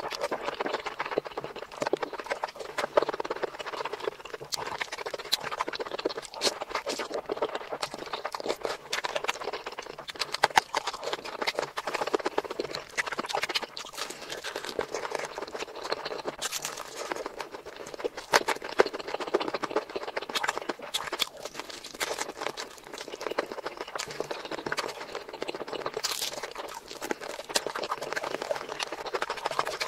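Close-miked mukbang eating sounds: steady chewing with many quick, sharp mouth clicks and smacks.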